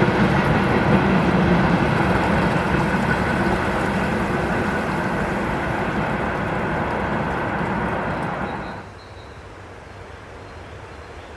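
Freight train rolling past, a steady loud rumble and clatter of wagons on the rails, which drops off sharply about nine seconds in, leaving a much quieter hum.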